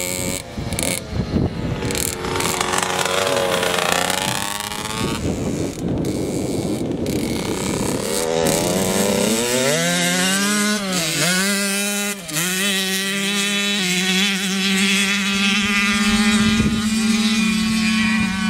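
Small dirt bike engine running and revving, its pitch rising and falling several times before holding a steadier, higher note in the second half.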